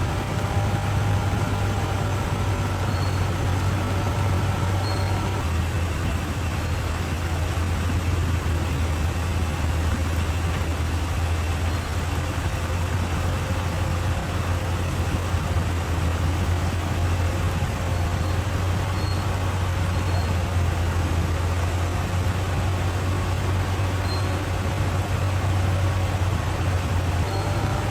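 A bulldozer's diesel engine running steadily under load, with a deep hum whose pitch shifts slightly about five seconds in.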